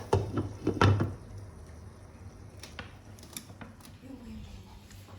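Kitchen utensils and dishes knocking and clattering, a quick run of loud knocks in the first second, then a few faint clicks.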